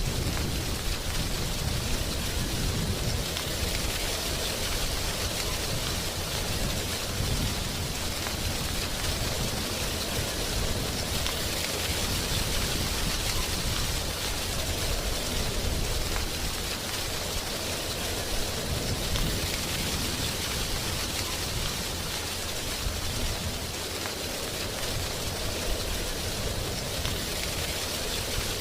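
Wind blowing through the dry leaves of trees: a steady rustling hiss that swells and eases in slow gusts every several seconds, over a low rumble.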